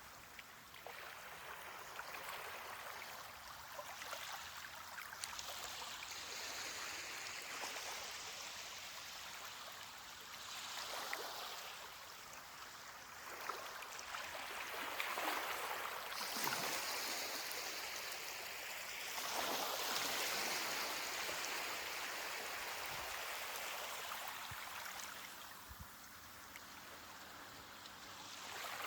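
Ocean waves washing onto a beach: a steady hiss of moving water that swells and fades every few seconds as waves break and run up the shore.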